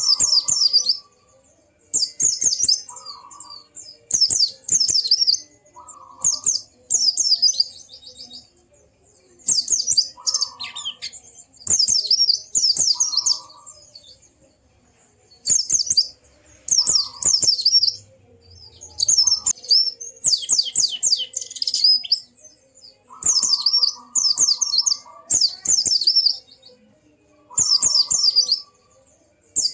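White-eye (pleci) singing in short, rapid, high twittering phrases about every two seconds, many with a lower short note alongside.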